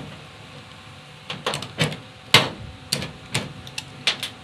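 Sharp, irregular knocks, about ten in three seconds and the loudest about halfway in: hammer taps on the galvanized iron sheet fitted as the new bottom of an old washing machine.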